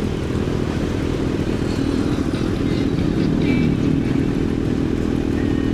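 Kawasaki ZX-6R inline-four running steadily through an SC Project CRT aftermarket exhaust.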